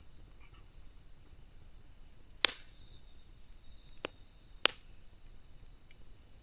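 Wood burning in a campfire with a faint crackle, and three sharp pops: one about two and a half seconds in, and two more close together around the four-second mark.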